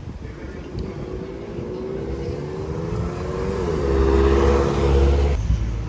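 A motor vehicle accelerating close by on a city street, its engine note rising steadily, dipping about three and a half seconds in, then swelling with a low rumble before cutting off suddenly near the end.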